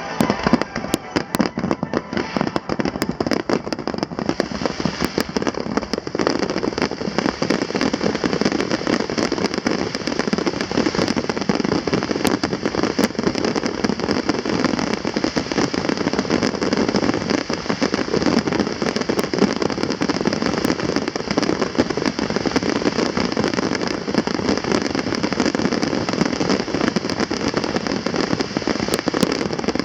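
Fireworks finale barrage: a dense, unbroken rapid crackling of many shells bursting one on top of another.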